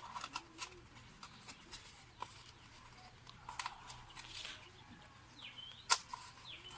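Scattered light clicks and taps of cardboard tubes and cups being handled and pushed together, with a sharp click about six seconds in and two short high chirps near the end.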